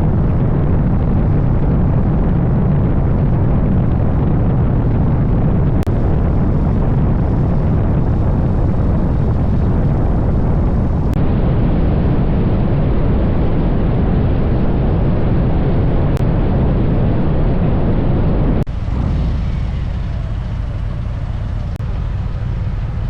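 Heavy wind rumble and road noise on the microphone of a motorcycle riding at speed, a steady low roar without a clear engine note. It drops somewhat after a cut near the end.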